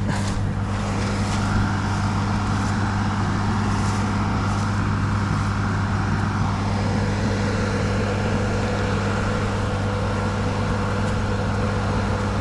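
A vehicle engine idling steadily with a deep, even hum. Its higher tones shift slightly about six and a half seconds in.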